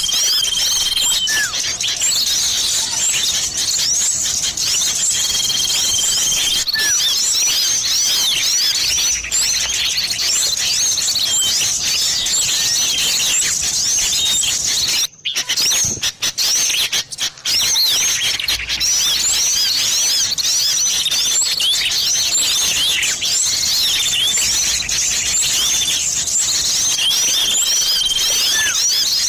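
Bird-lure recording of small songbirds, a mix of sirtu and cipoh (common iora) calls: a dense chorus of quick high chirps and sweeps, with a held whistle that comes back a few times. The sound cuts out briefly a few times about halfway through.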